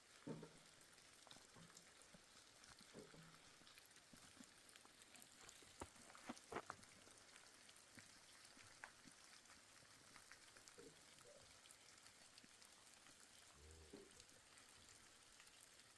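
Near silence: a faint steady patter with scattered ticks, like precipitation falling on a surface, and a few sharper clicks about six seconds in.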